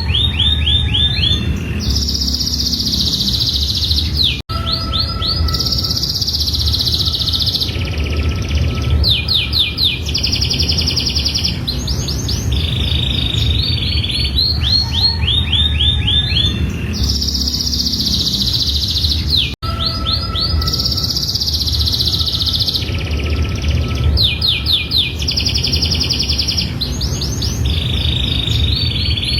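Domestic canary singing a long, continuous song of fast trills and buzzy rolls, switching from one rapid repeated phrase to the next every second or so. The song cuts out for an instant twice.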